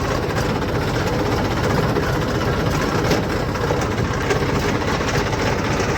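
Tractor diesel engine running steadily, a low even pulse of firing strokes.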